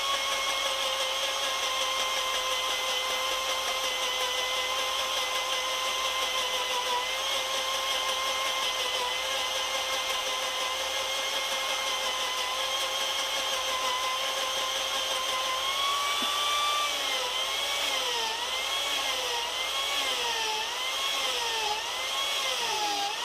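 High-speed RotoZip-style spiral-saw motor running a rotary carving cutter, a steady high-pitched whine. From about two-thirds of the way in, the pitch dips and recovers about once a second as the cutter is pushed into the wood and eased off, and near the end it starts to wind down.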